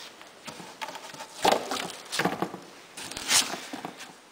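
Homemade cardboard box case being handled and opened: three or four short rustling scrapes of cardboard, the last and sharpest near the end.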